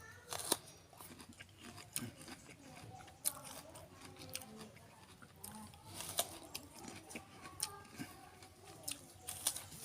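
Someone chewing a crisp red wax apple (jambu air lilin merah), with irregular crunches.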